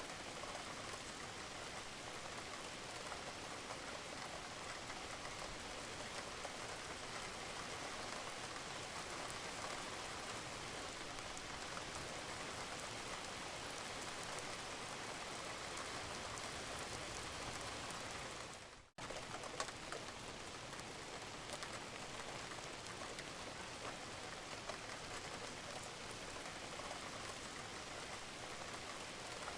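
Steady rain falling on a roof, an even hiss with individual drops ticking through it. About two-thirds of the way in, it fades out briefly and cuts back in with a sharp click.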